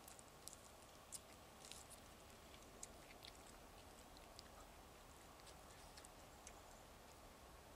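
Faint, irregular small clicks and smacks of a person chewing food, over a low steady hiss.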